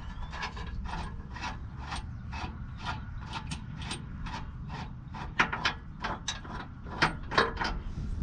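Hand socket ratchet wrench clicking in repeated short strokes, roughly two a second, as a bolt is turned by hand; a few strokes in the second half are louder.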